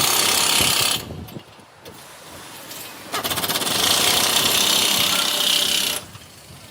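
A loud workshop tool runs in two bursts: the first stops about a second in, the second runs from about three seconds to six, with a fast rattle at its start.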